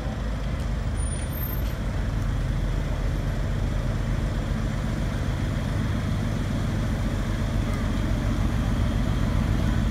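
Mercedes-AMG GT's twin-turbo V8 running at low revs as the car creeps forward at walking pace, steady and growing gradually louder as it comes closer.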